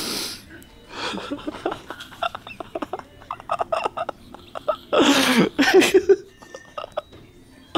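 A person's non-word vocal sounds: short giggles and snickers, with a loud breathy cry falling in pitch about five seconds in.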